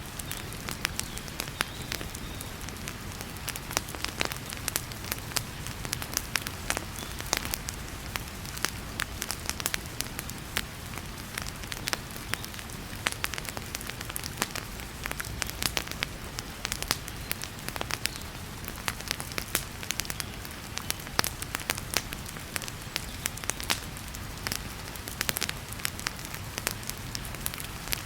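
Wood fire in a fireplace crackling, with many sharp, irregular pops, over a steady hiss of heavy rain.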